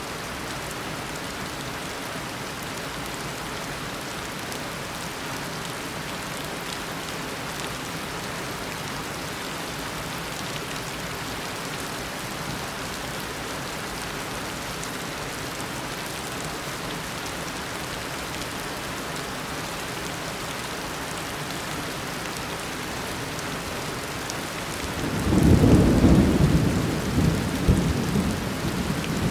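Steady heavy tropical rain. About 25 seconds in, a loud rumble of thunder swells up and rolls on in uneven peals to the end.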